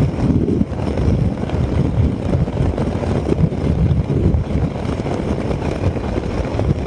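Heavy wind buffeting on the microphone of a Zontes 368G motorcycle riding at high speed: a loud, uneven, low rumble with no clear engine note standing out.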